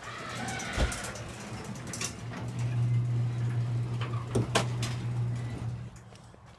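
Craftsman 3/4-horsepower chain-drive garage door opener running, a steady motor hum with a couple of clicks as the door moves, stopping near the end.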